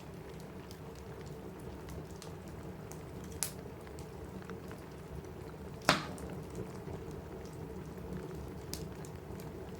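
Steady rain on a cabin roof under a crackling wood fire, with scattered sharp pops. The loudest pop comes about six seconds in and another about three and a half seconds in.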